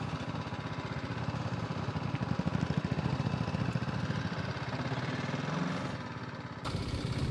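Motorcycle engine running at low revs with a rapid, even firing pulse; the pitch rises a little about five seconds in, then eases off.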